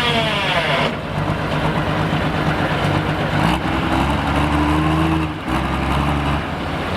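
Super stock pulling tractor's diesel engine coming off full power at the end of a pull: a high whine falls in pitch and dies away in about the first second. The engine then runs on at lower speed.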